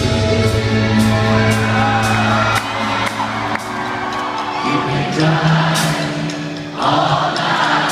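Live rock band playing through an arena PA, sustained guitar tones over evenly repeating drum hits, with the crowd singing along and whooping; the cheering swells near the end.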